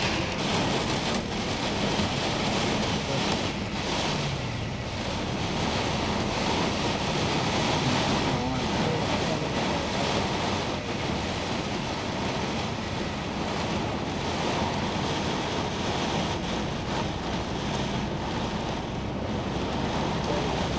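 Heavy monsoon rain and road spray heard from inside a moving coach: a steady rushing noise over the low rumble of the coach on the road.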